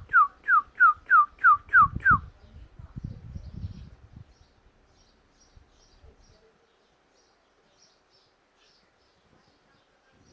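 Northern cardinal song: a quick series of loud, clear whistles, each sliding down in pitch, about three a second, ending about two seconds in. A low rumble follows, then only faint high chips keep going from another, more distant bird.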